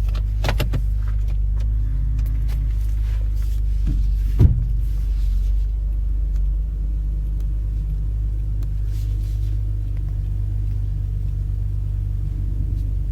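Opel Insignia OPC's turbocharged 2.8-litre V6 idling steadily shortly after a cold start, a low even hum. A few brief clicks sound near the start and once about four and a half seconds in.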